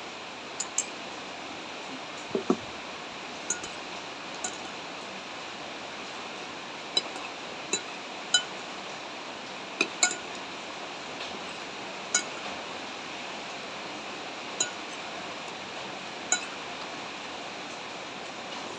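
A spoon clinking against a bowl about a dozen times at irregular intervals as noodle soup is eaten, each clink short and ringing, over a steady hiss of rain.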